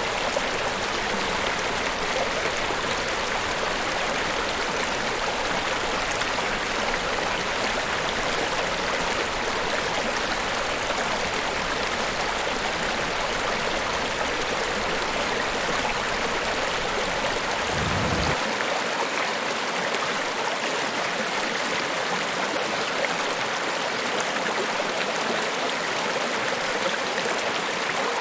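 Niagara Falls, a steady, even rush of falling water. About two-thirds of the way through there is a brief low thud, after which the deep bass rumble drops away.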